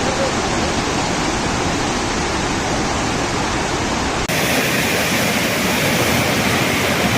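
A steady rush of water, with a cut about four seconds in to a brighter, hissier recording with less bass.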